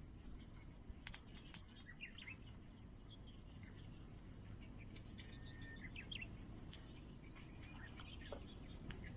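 Faint birds chirping in short calls, with a few sharp clicks about a second in and again near seven seconds, over a low steady background rumble.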